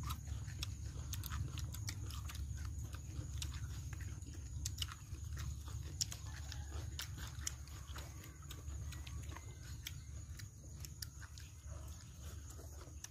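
People chewing and lip-smacking as they eat roasted chicken with their fingers, with many small sharp clicks throughout over a steady low rumble.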